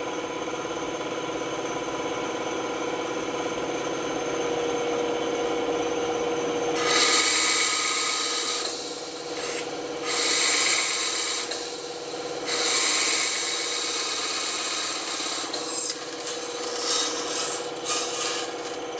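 Band saw running with a steady hum. About seven seconds in, the blade starts cutting wood in three stretches of a couple of seconds each, then in shorter, choppier cuts near the end.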